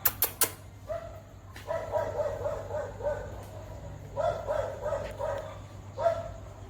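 A dog giving three runs of quick, high-pitched yelps, about four or five a second. Two sharp clicks come at the very start.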